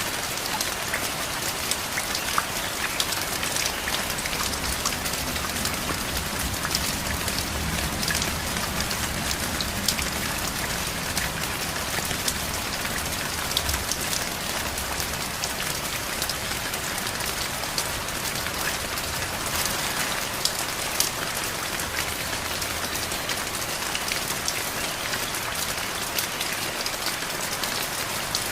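Heavy rain falling steadily, with many individual drops ticking sharply close by. A faint low rumble sits underneath for a while in the first half and again briefly later on.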